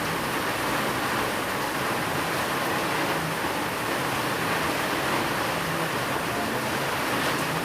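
Steady rain, a dense, even hiss with no single drops or thunder standing out, blended with white noise and a faint low steady tone from binaural beats.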